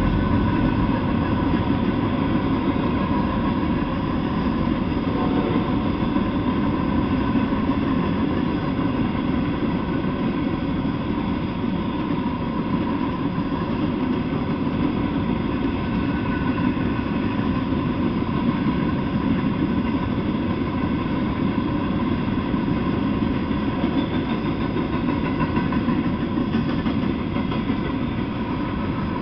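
Freight train of empty flatcars rolling past on the rails, a steady, unbroken noise of steel wheels on track.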